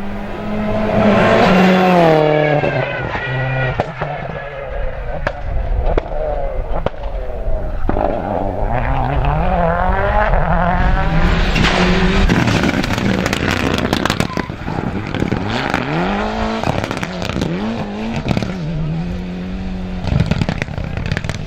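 Rally car engines revving hard up and down through gear changes as the cars race past, with sharp cracks and pops among the engine noise.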